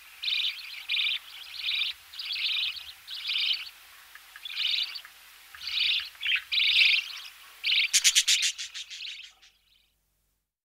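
Budgerigar chicks making short, raspy begging calls in the nest as they are fed, about a dozen in a row. About eight seconds in comes a loud, rapid pulsing burst of calls, which then fades out.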